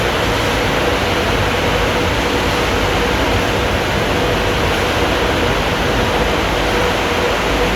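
Kleindienst EUROWS automatic car wash machinery running: a loud, steady rushing noise with a steady hum.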